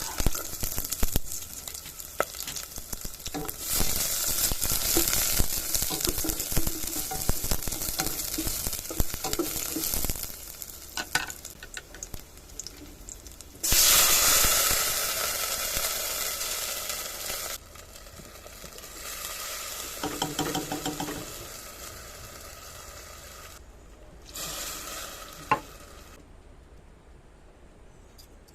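Food sizzling in hot oil in a pan, with stirring and the clatter of a utensil against the pan. The sizzle jumps suddenly louder about fourteen seconds in, then gradually dies down.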